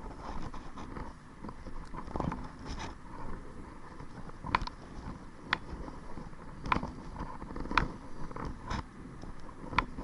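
Kayak being paddled: a steady run of sharp knocks about once a second over a wash of water noise.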